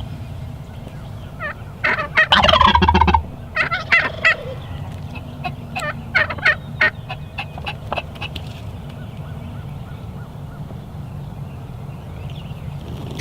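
Wild turkey gobbling: a loud, rapid rattling gobble about two seconds in, followed by a string of shorter calls over the next few seconds, with a steady low rumble underneath.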